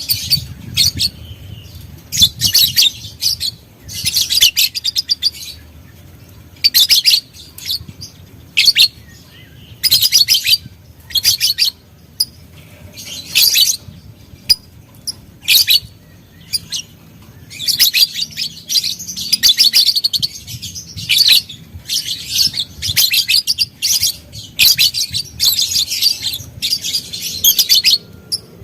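Lovebird chattering in repeated bursts of rapid, high-pitched calls, each up to about a second long, coming thick and fast in the second half.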